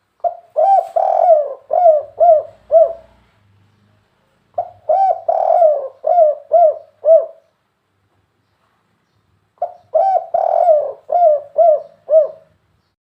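Spotted dove (tekukur) cooing: three phrases, each a longer coo followed by several short, falling coos, with a pause of a second or two between phrases.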